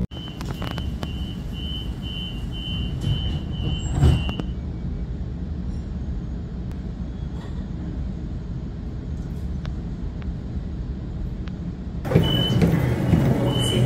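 Inside a stopped electric suburban train carriage: a steady low hum, with a rapid series of high beeps, the door-closing warning, for the first four seconds, ending in a thud as the doors shut. About twelve seconds in the sound cuts to louder, busier station noise with a few more beeps.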